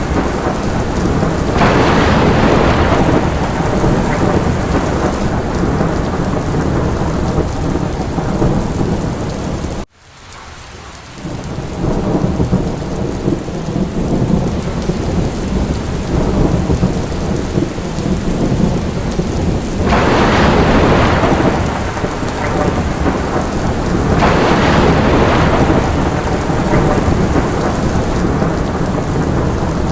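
Steady heavy rain with a continuous low rumble beneath it, swelling louder a few times. About ten seconds in, the sound cuts out almost completely for an instant and fades back in over a second or two.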